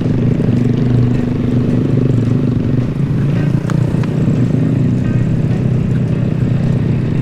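Honda Grom's single-cylinder engine running steadily while riding, holding an even pitch.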